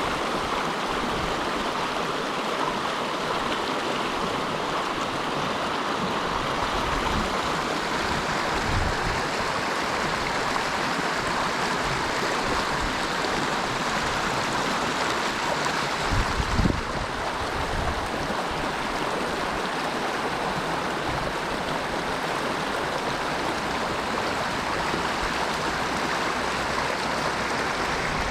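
Water rushing steadily in a stream, an even wash of noise. There are a few brief low bumps, the loudest about sixteen seconds in.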